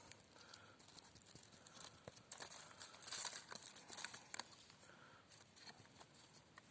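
Faint crackling of burning dry pine: a small fire of split pine sticks and shavings giving off scattered sharp snaps and soft hissing flurries.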